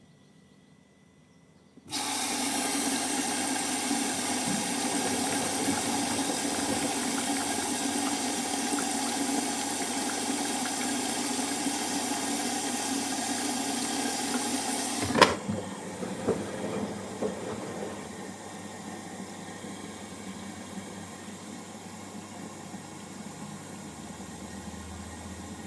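Water running with a loud, steady hiss that starts suddenly about two seconds in, then drops to a quieter hiss after a click just past halfway, with a few light clicks after.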